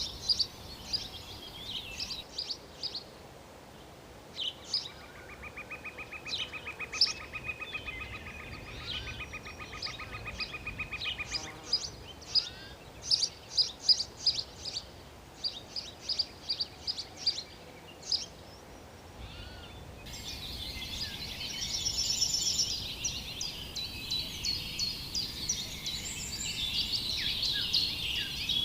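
Wild birds chirping and calling in quick short notes. A rapid, even trill runs underneath for several seconds in the first half. About two-thirds of the way through, the sound switches abruptly to a denser chorus of many birds.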